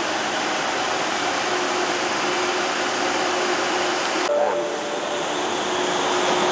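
Metrolink tram noise: a steady rumble and hum, with a faint constant tone. About four seconds in, the sound changes suddenly and a brief higher tone sounds.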